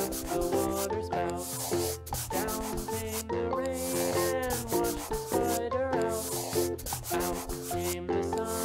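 Marker scratching across paper in separate strokes, each stopping with a short break, over background music.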